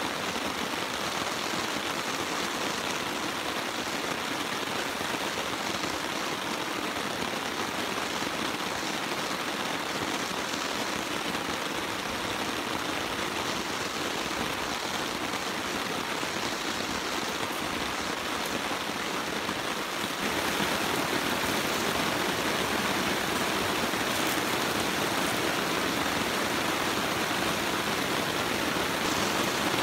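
Steady rain falling, an even hiss that steps up a little in loudness about two-thirds of the way through.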